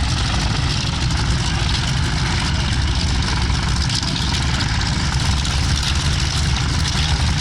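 Propeller aircraft engine droning steadily, with a rushing hiss over it.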